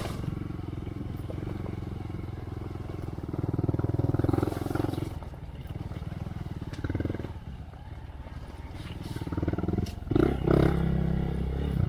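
2023 Honda Monkey's single-cylinder engine running through a Yoshimura RS3 exhaust while being ridden, revving up and easing off in turn. It rises to its loudest about ten seconds in.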